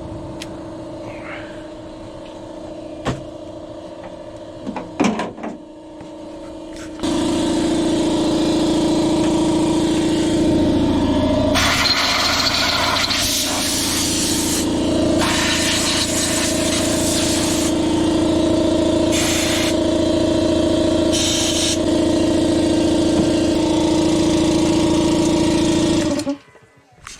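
Battery-powered paint sprayer's motor running with a steady hum, stepping up loudly about a quarter of the way in, with repeated stretches of hissing spray as a coat of paint goes on the parts; the motor cuts off suddenly near the end.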